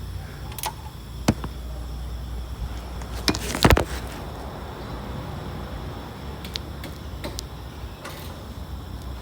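A steel wrench clinking and knocking against the oil pan's drain plug as the plug is worked loose. The clinks come scattered and irregular, the loudest about three and a half seconds in, over a low steady rumble.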